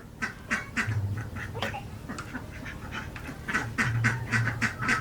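Ducks quacking: a run of short calls a few times a second, coming faster and louder in the last second and a half.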